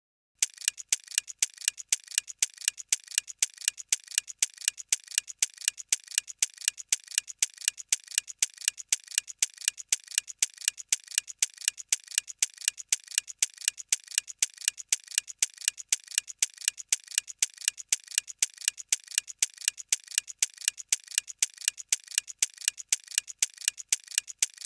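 Clock ticking sound effect: sharp, even ticks several times a second, used as a quiz countdown timer. It starts about half a second in and stops just before the end.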